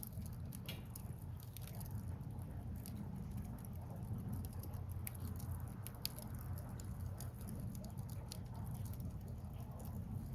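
Firewood burning, crackling and popping irregularly, over a steady low rushing of flowing water.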